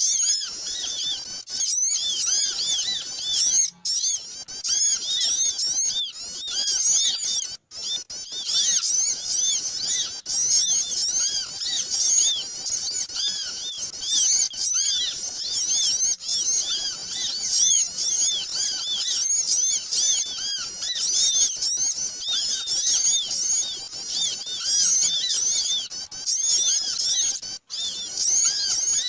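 A dense, noisy chorus of many small birds chirping and chattering at once in quick, overlapping high-pitched notes. It is a bird-lure recording used to call small birds in, and it cuts out for an instant a few times.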